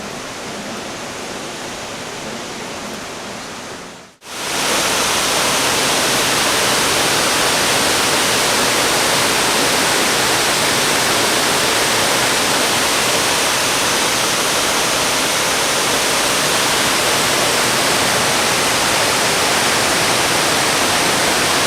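Waterfall water rushing steadily. For the first four seconds it is quieter; then, after a sudden cut, it is much louder and even.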